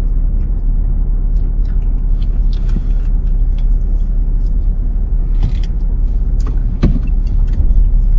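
Steady low hum of a car's engine idling, heard inside the cabin, with faint clicks and taps scattered over it.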